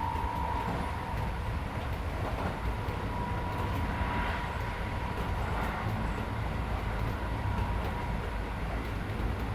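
Keisei 3400 series electric train heard from inside a passenger car while running: a steady low rumble of wheels on rail, with a high steady whine that fades away about seven seconds in.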